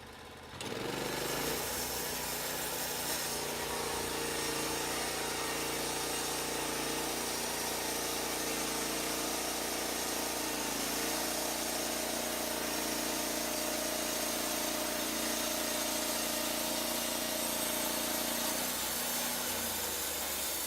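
Norwood Lumber Pro HD36 portable bandsaw mill: its gas engine spins up about a second in and runs steadily under load while the band blade saws through a log with a steady hiss. The engine winds down near the end.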